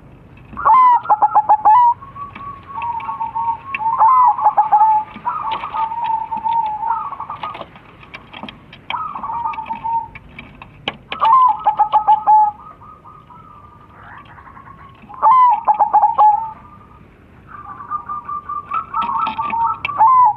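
Crossbred zebra doves (perkutut), male and female calling back and forth. Each phrase is a quick run of staccato notes that ends in a held coo, and a loud phrase comes every couple of seconds with quieter answering coos in between.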